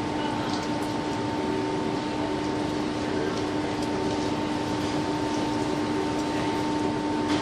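A steady machine hum holding two unchanging tones, over a faint even hiss.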